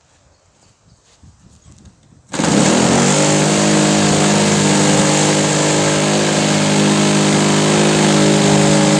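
Small 35cc gasoline engine starting up about two seconds in. Its pitch climbs for a moment, then it runs loud and steady at high speed.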